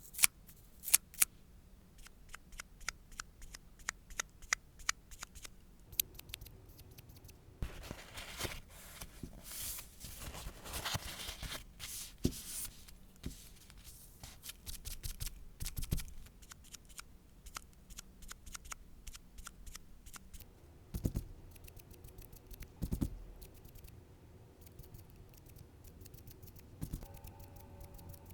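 Small sharp snips and clicks of hand-held nail-care tools, close to the microphone, coming irregularly a few at a time, with a denser stretch of scraping about eight to twelve seconds in.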